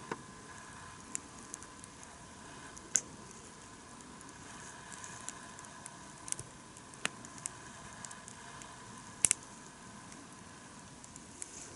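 Wood campfire crackling: irregular sharp pops and snaps over a faint steady hiss, with a louder double pop about nine seconds in.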